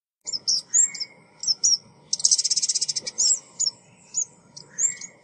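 A female ốc mít songbird calling: a series of short, high, chirping notes, with a fast rapid trill about two seconds in, then more single chirps.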